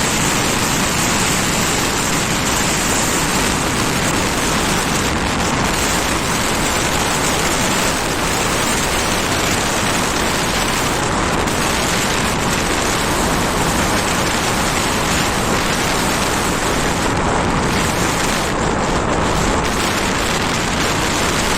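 Steady, loud rushing noise of wind and road while riding a scooter, with no separate engine note standing out.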